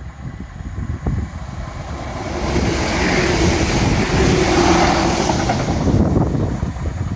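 A vehicle passing, rising to a steady hum and fading again over a few seconds, over constant wind buffeting on the microphone.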